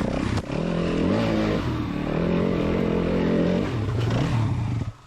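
Dirt bike engine revving under riding, its pitch climbing and falling with the throttle, then dropping away sharply near the end.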